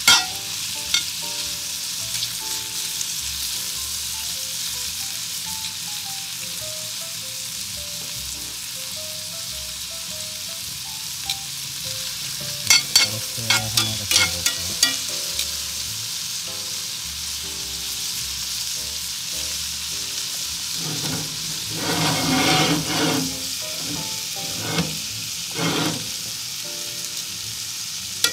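Cubed ribeye steak searing in a hot cast iron skillet, a steady high sizzle. Metal tongs click and scrape against the pan as the pieces are stirred, in clusters near the start and around the middle, with a louder stretch of scraping about three-quarters of the way through.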